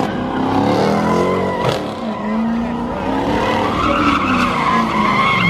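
A car doing donuts: tires squealing with a wavering whine while the engine revs rise and fall.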